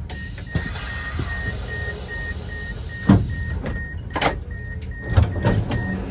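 Electronic warning beeper sounding rapid, evenly spaced beeps, about three a second, over a low rumble, with a few loud knocks partway through.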